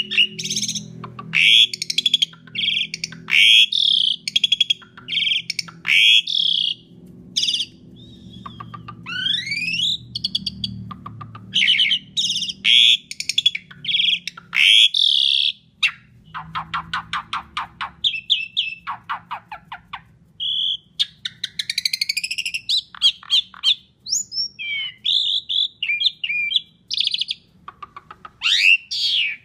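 Asian pied starling singing a long, loud, varied song: sharp whistled notes and rising glides, with fast buzzy rattling runs about halfway through.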